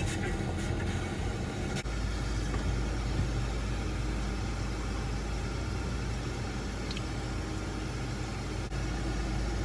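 Steady low rumble of a car's idling engine heard inside the cabin; the rumble turns heavier about two seconds in and then holds steady.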